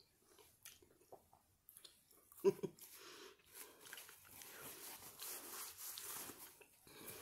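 Someone chewing a bite of pizza close to the microphone: soft, irregular crunching and mouth sounds. A brief hum of the voice comes about two and a half seconds in.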